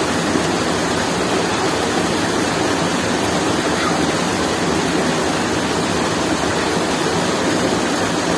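Steady, loud rush of flowing water, like a river or waterfall close to the microphone.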